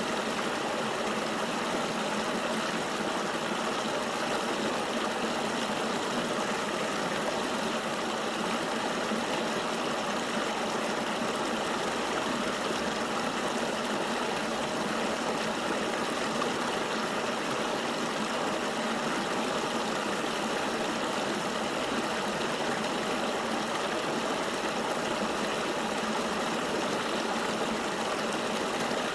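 River water flowing steadily: an even, unbroken rush with little deep rumble.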